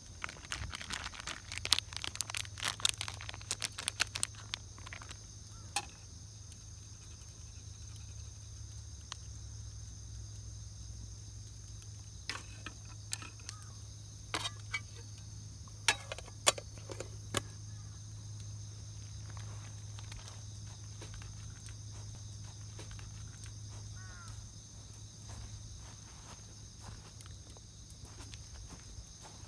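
Steady high-pitched drone of summer insects, with scattered sharp clicks and knocks, bunched in the first few seconds and again around the middle.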